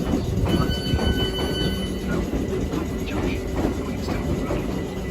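Electric train running at the platform: a steady low rumble with several high, level whine tones over it, which stop about two seconds in.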